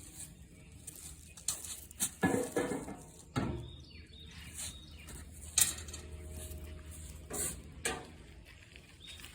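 Scattered metallic clinks and knocks as metal truck parts are handled, the loudest about five and a half seconds in, over a steady low hum.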